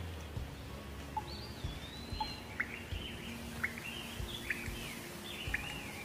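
Birds chirping over a steady background hiss. A rising whistle comes about a second in, followed by a run of short chirps, each ending in a quick downward note, roughly one a second.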